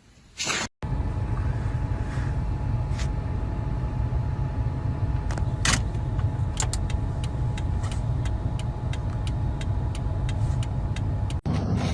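Steady low rumble of a moving car, with a run of sharp, evenly spaced clicks in the second half.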